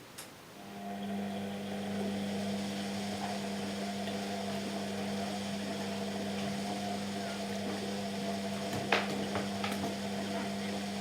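Washing machine humming steadily, an electric motor or pump hum that starts about half a second in and cuts off at the end, with a sharp click about two seconds before the end.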